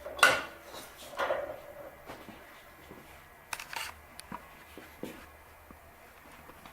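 Metal clanks and clicks as small steel pieces and a magnetic holding square are handled and set into a bench vise. The sharpest clank comes just after the start, another about a second in and a pair near four seconds in, then only light ticks.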